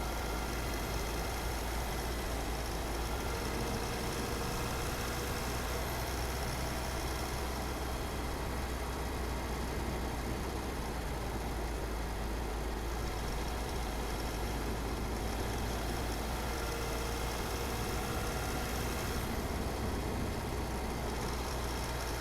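A car driving at steady speed: a constant low rumble of engine and tyres on the road, with no change in speed.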